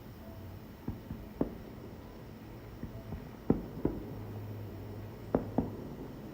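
Distant fireworks bursting: a handful of short sharp reports, some in quick pairs, over a faint steady background.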